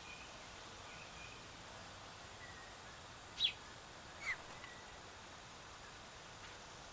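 Two short, sharp bird calls, each a quick downward sweep, about a second apart, with a few faint thin chirps between, over steady outdoor background hiss.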